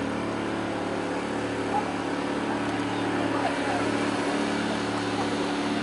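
Steady vehicle engine hum with road noise, as picked up by a dashcam.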